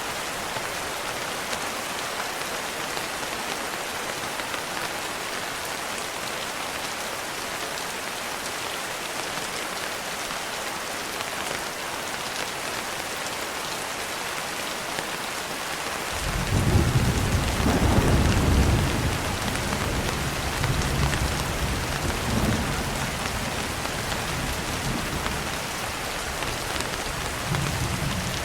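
Steady rain, with a roll of thunder coming in about halfway through, loudest a couple of seconds after it starts and then rumbling on more quietly.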